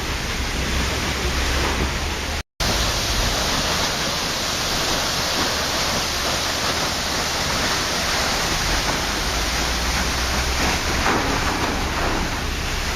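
Waterfall rushing in a steady, even roar of falling water, with one very brief total drop-out about two and a half seconds in.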